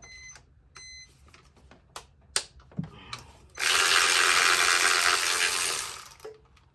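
A power tool whirring steadily for about two seconds, loosening a bolt on the engine intake, after two short high beeps and a few clicks.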